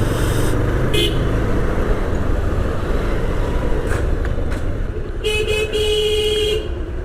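Steady low rumble of a motorcycle riding in city traffic, with a vehicle horn honking twice about five seconds in: a short toot, then a longer one.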